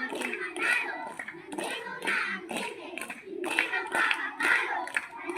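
Rhythmic hand clapping at about three claps a second, with voices over it.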